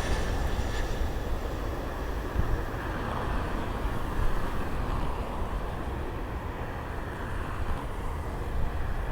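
Jet airliner engine noise, a steady rush whose hiss fades over the last few seconds, with wind rumbling on the microphone.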